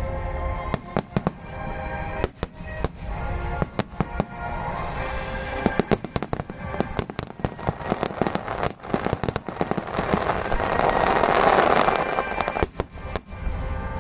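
Aerial fireworks bursting in quick succession, a run of sharp bangs and crackles over accompanying music. About ten seconds in, a dense crackling swell builds and becomes the loudest part before it breaks off.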